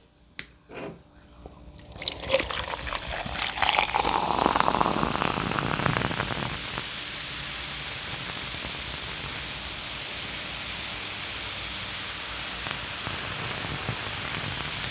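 Pepsi Zero soda poured into a glass. The pour starts about two seconds in and swells, then eases off after a few seconds into a steady fizzing hiss of carbonation.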